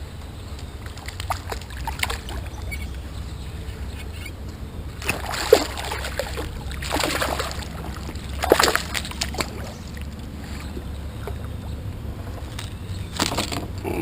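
Water sloshing and splashing around a kayak, with several louder splashes about five, seven, eight and a half and thirteen seconds in, over a steady low rumble.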